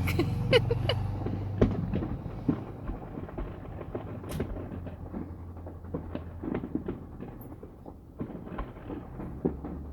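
Fireworks going off at a distance: scattered bangs and crackles of an aerial display, the sharpest about half a second, a second and a half and four seconds in, over a low steady hum.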